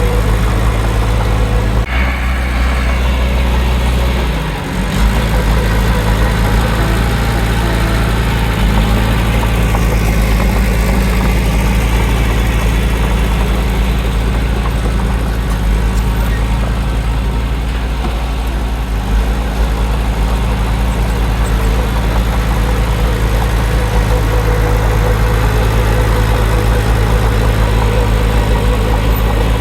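Heavy diesel earthmoving machinery running steadily, its engine note shifting briefly about two seconds in and dipping for a moment around four to five seconds in.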